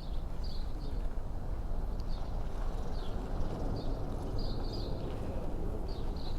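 Small bird chirping in short, repeated high notes over a steady low outdoor rumble.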